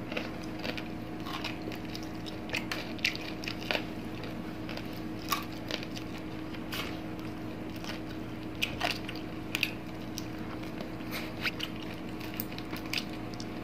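Close-miked eating of crispy fried fish by hand: scattered crunches, lip smacks and mouth clicks at irregular intervals, over a steady low hum.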